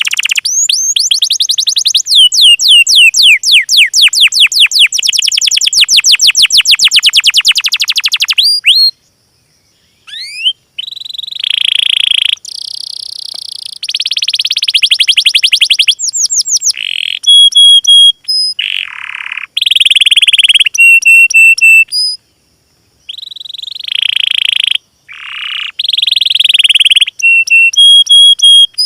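Small songbirds singing: a long, fast trill of rapidly repeated down-slurred notes, then shorter buzzy trills and high whistled notes, broken by sudden gaps of silence where the recording is cut.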